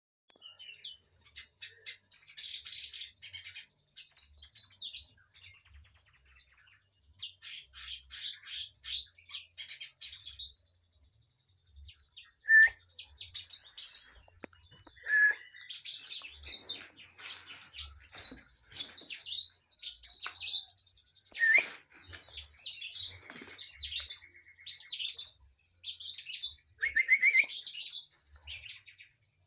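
Kinoy songbird singing vigorously: rapid high chirps and trills in quick bursts of a second or two with short pauses, mixed with a few lower, clearer whistled notes.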